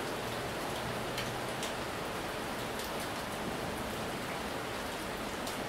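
Heavy tropical rain pouring steadily onto a tiled porch and the ground around it. Individual drops land close by with sharp taps now and then.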